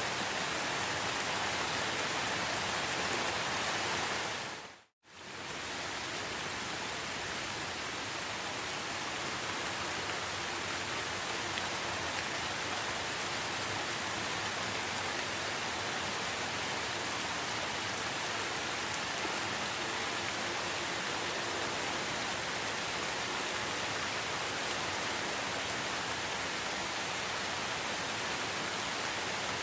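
Steady heavy rain falling in a rainforest, an even hiss. About five seconds in, the sound fades quickly to silence and swells straight back.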